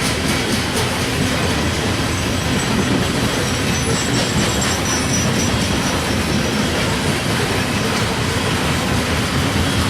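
Loaded coal hopper cars of a CSX freight train rolling past on steel rails: a steady rumble of wheels on track, with a faint high wheel squeal about four seconds in.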